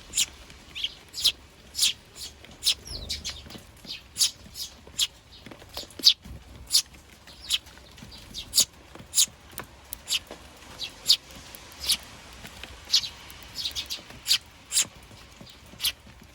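Eurasian tree sparrows chirping: a run of short, sharp chirps, irregular at about one to two a second.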